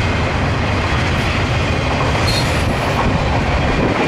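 Double-stack intermodal freight cars rolling past: a steady, loud rumble of steel wheels on rail, with a brief high wheel squeal about two and a half seconds in.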